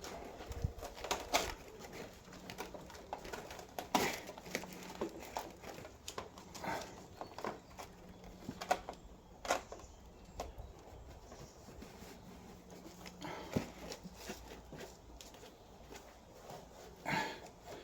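Crinkling and light tapping of self-adhesive sound-deadening sheet and its backing paper being handled, peeled and pressed onto the bulkhead, in irregular short clicks and rustles.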